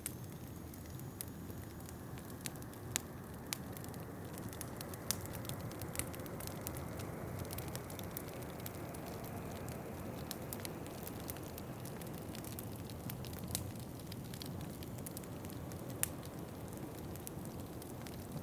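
Wood fire crackling in a fireplace, with irregular sharp pops over a steady low rushing noise, likely the howling winter wind of the mix.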